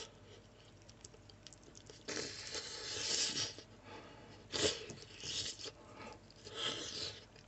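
Close-up chewing of a vinegar-braised chicken wing, coming in several short bursts, with a brief sharp knock about halfway through as the gnawed bone is set down in a ceramic bowl.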